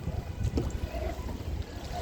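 Wind rumbling unevenly on a phone's microphone aboard a small kayak on open water.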